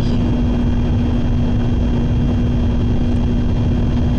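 Steady running noise of a Shinkansen bullet train at speed, heard inside the passenger car: a loud, even low rumble with a steady hum running through it.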